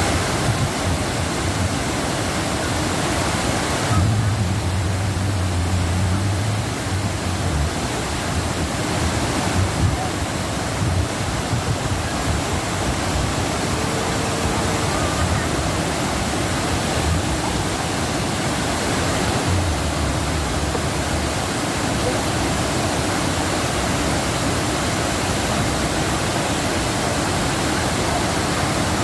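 Waterfall pouring, a steady rushing of falling water that holds an even level throughout.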